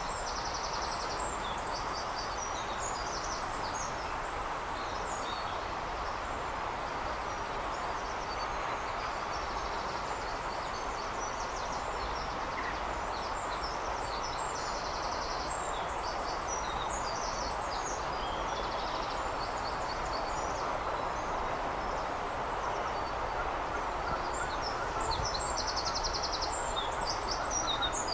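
Small songbirds singing and calling, high chirping notes with a fast trill phrase coming three times, over a steady background hum of distant noise.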